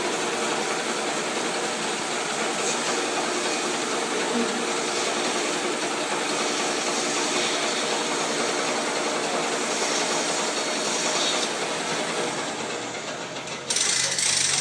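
Bandsaw mill running steadily, its engine and band blade making an even mechanical drone. Near the end the sound cuts abruptly to a different, louder noise.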